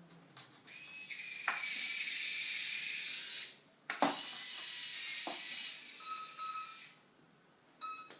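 Quadcopter retractable landing gear servos whining as the legs swing, in two runs of about two seconds each, with sharp clicks as the gear starts and stops. Short steady tone bursts follow near the end.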